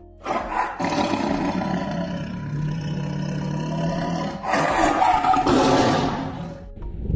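Tiger roaring: two long, rough roars, the second starting about four and a half seconds in.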